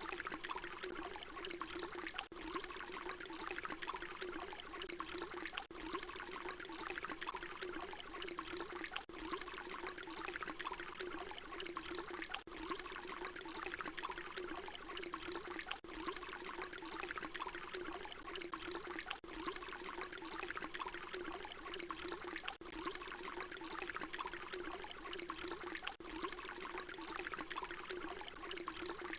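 Water pouring in a steady continuous stream. It is a short recording looped, with a brief dip about every three and a half seconds.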